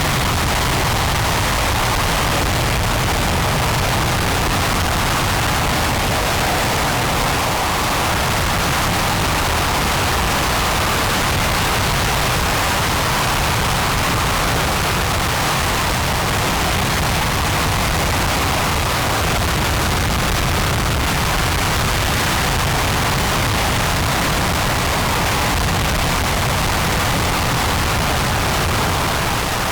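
RS-25 liquid-hydrogen/liquid-oxygen rocket engine firing on a test stand: a loud, steady, unbroken roar of rushing noise with no change in level.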